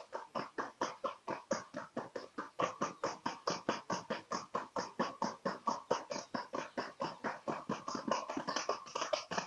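A ridden horse's hooves striking a hard track in a rapid, even rhythm of sharp clicks, about six or seven a second.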